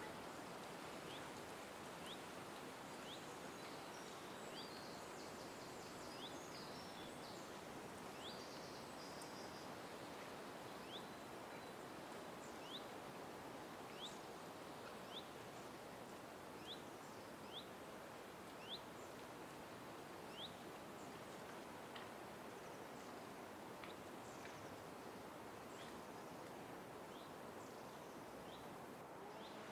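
A small bird repeating a short, high, rising chirp about once a second, with a few other brief bird notes early on, over a faint steady background hiss.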